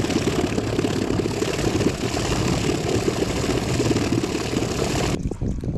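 Small boat's outboard motor running steadily under way, with rushing wind and water noise, cutting off abruptly about five seconds in.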